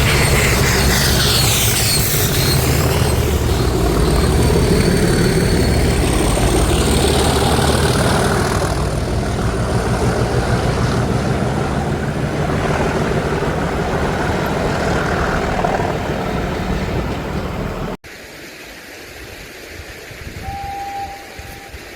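A train passing close by, loud and steady, with a high tone that falls in pitch as it goes past. About 18 seconds in the sound cuts off suddenly to a much quieter background with one short high tone near the end.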